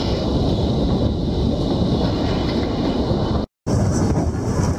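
Puffing Billy steam train running along the track, heard from aboard: a steady rumble of the carriages on the rails. The sound drops out completely for a moment about three and a half seconds in.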